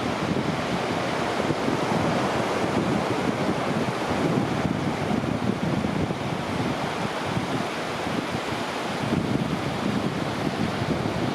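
Ocean surf washing on a beach, with wind buffeting the microphone in uneven gusts.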